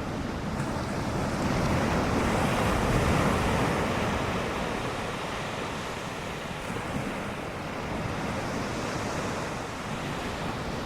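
Ocean surf washing on a beach, a swell of sound building about two seconds in and easing off after, with wind buffeting the microphone.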